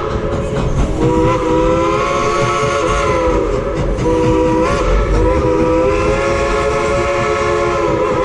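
Steam whistle of the 1938 Baldwin steam locomotive blowing long blasts, a chord of several notes sounding together with a brief sag in pitch as each blast starts and stops. One blast ends just at the start, a long one follows about a second in, and another begins near the middle and carries on. A steady rumble from the moving train runs underneath.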